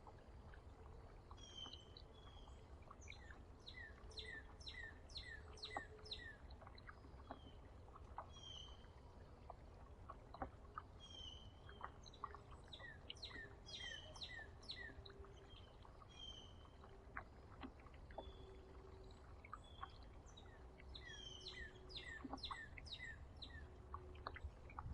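Small songbirds singing: three bursts of quick, repeated falling notes, each lasting a few seconds, mixed with short whistled chirps. A steady low rumble lies underneath.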